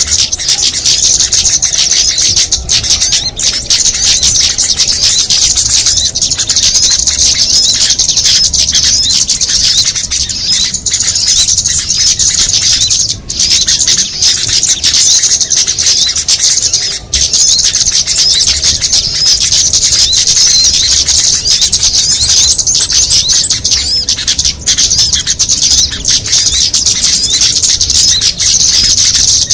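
Bird-lure recording: a dense, continuous chatter of many small songbirds calling at once, high-pitched rapid chirps and trills layered over each other, with a couple of brief dips.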